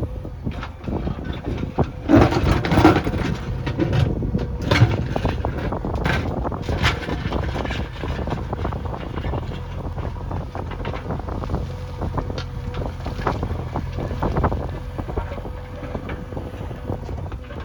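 JCB backhoe loader's diesel engine running steadily while the machine works, with scattered clanks and knocks, the loudest cluster about two to three seconds in.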